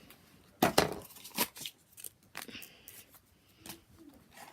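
A toy truck's cardboard-and-plastic packaging being handled and opened, with a few sharp crackles and snaps, the loudest a little under a second in.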